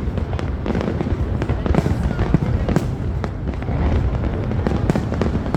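Fireworks display: a rapid run of bangs and crackles over a continuous low rumble of booms.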